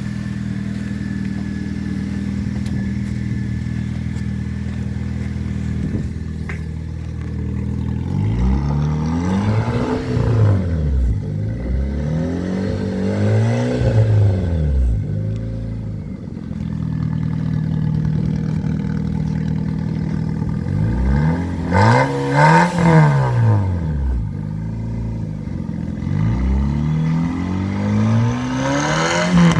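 Fiat Panda (type 169) engine running through an aftermarket exhaust taken from a Fiat 500 0.9 TwinAir. It idles steadily, then is revved four times, each rev rising and falling back to idle.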